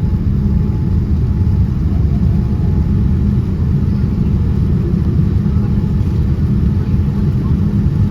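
Cabin noise of a Boeing 787-10 airliner: a steady, loud, low rumble of engines and airflow.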